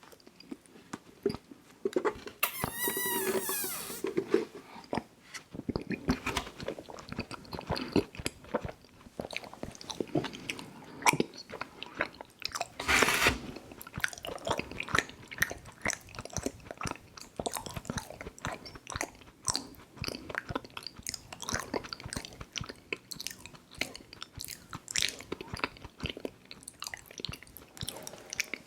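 Close-miked chewing of soft chewy fruit candy: continuous wet smacking and biting sounds. A short wavering tone comes about three seconds in, and a louder noisy burst comes about halfway through.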